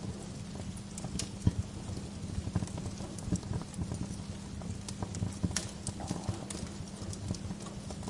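Wood fire crackling in a fireplace: irregular pops and snaps of burning logs over a steady low rumble of the flames, with one sharper pop about a second and a half in.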